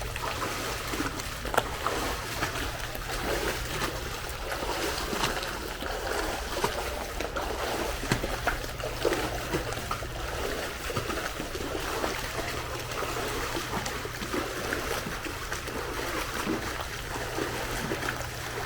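Pool water splashing and sloshing, with many small splashes throughout, as someone does jump squats in the water. A steady low hum runs underneath.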